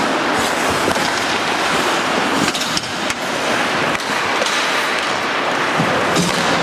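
Ice hockey play on a rink: skate blades scraping and carving the ice make a steady rushing noise, with a few sharp knocks from sticks and puck.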